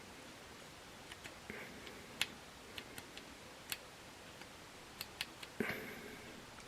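Small irregular clicks and taps of a tiny steel screw and a screwdriver against the parts of an HO scale locomotive as the screw is lined up, with a brief scraping rustle about five and a half seconds in.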